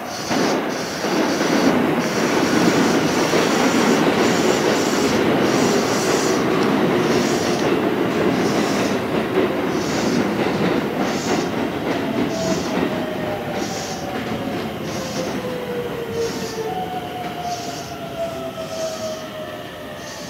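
Electric commuter trains running on an elevated track through a station. The wheels rumble and clatter with a beat about once a second, and in the second half a motor whine falls steadily in pitch as a train slows into the platform.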